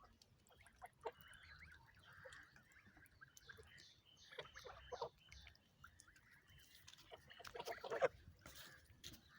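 Geese honking in scattered calls, with a quick run of high notes about three and a half seconds in and the loudest burst about eight seconds in.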